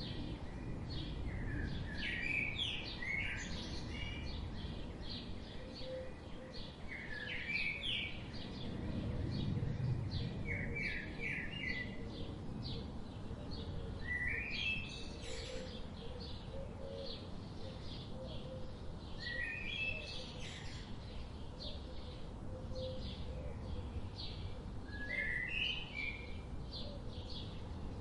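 Several birds singing: a short song phrase recurs every few seconds, roughly six times, over constant quick chirping, with a low background rumble throughout.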